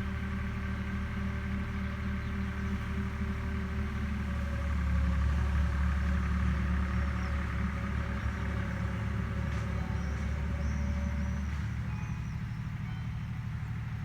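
Agricultural machine's engine running steadily with a low hum, growing louder about four seconds in and easing back near the end.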